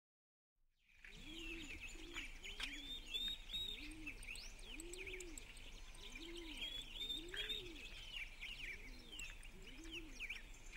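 Birdsong: many small birds chirping high, over a lower call repeated about twice a second. It starts suddenly about a second in, after silence.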